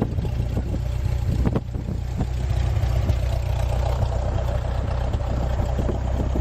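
Cessna 172S's four-cylinder piston engine and propeller running steadily, with a few short knocks in the first two seconds.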